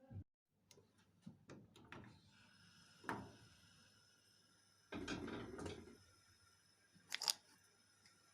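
Faint handling sounds at a desk: a few small knocks and clicks, a louder knock about three seconds in, a brief rustle about five seconds in and two sharp clicks near the end, over a faint steady hum.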